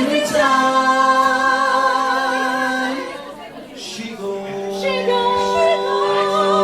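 A vocal group singing a cappella. One note swoops up and is held for about three seconds; after a short gap a second long chord is held, with vibrato coming in near its end.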